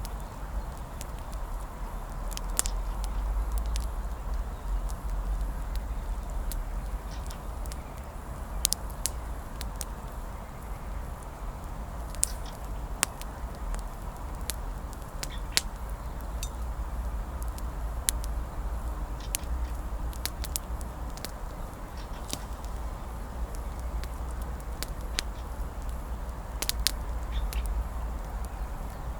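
Wood campfire crackling, with sharp irregular pops and snaps scattered a second or two apart, over a steady low rumble of wind on the microphone.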